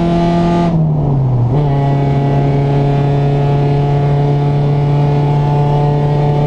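Honda Civic EG4's four-cylinder engine through a Buddy Club aftermarket exhaust, held at steady revs; the revs dip briefly about a second in, then hold steady again at a slightly lower pitch.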